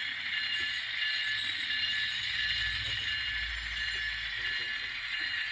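N-scale ScaleTrains GE ET44 model locomotive's onboard sound decoder playing diesel engine running sounds through its tiny speaker, a steady, thin, high-pitched hum. A low rumble comes in about two and a half seconds in and lasts about two seconds.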